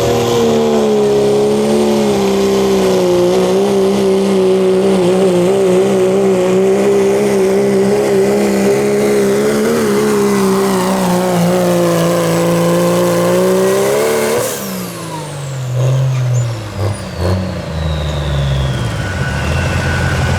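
Diesel pickup truck pulling a sled at full throttle, its engine held high for about fourteen seconds and slowly bogging down under the load. Then the throttle is released: the revs fall away, a high whine winds down, and the engine settles into lower, uneven running.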